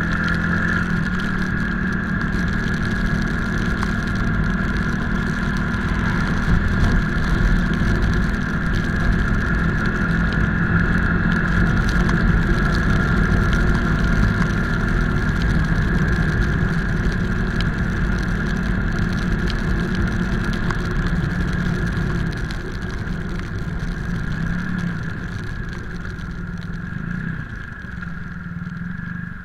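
Motorcycle engine running steadily under way, growing quieter over the last several seconds.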